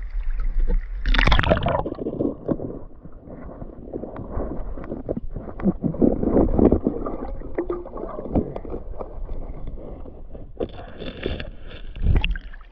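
Shallow creek water sloshing and gurgling, with scrapes and knocks against a canoe and the creek bottom. There is a loud splash about a second in and a run of knocks and splashes around the middle.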